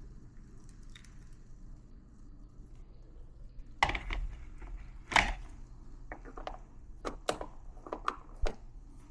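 Hard objects knocked and set down: two louder knocks about four and five seconds in, then a run of lighter clicks and taps, over a low steady hum.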